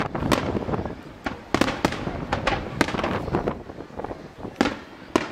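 Display fireworks going off: about a dozen sharp bangs and cracks of bursting shells in quick, irregular succession, with a short lull shortly before the last ones.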